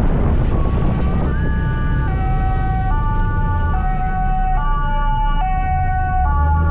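Emergency vehicle siren sounding in a two-tone high-low pattern, switching pitch about every second, with a brief upward slide at the start. A steady low scooter engine and road rumble runs underneath.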